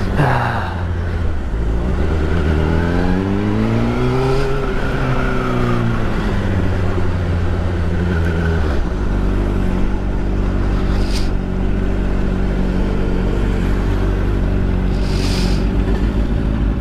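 Motorcycle engine running: its pitch drops, climbs and falls away again over the first eight seconds or so, then settles to a steady low run about nine seconds in. Two brief rushes of noise come near the end.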